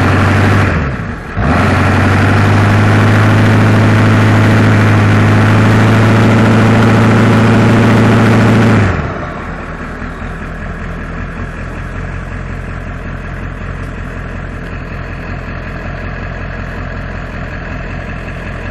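Diesel truck engine revved hard: two quick blips, then held at high revs for about seven seconds before dropping back to a steady idle about nine seconds in.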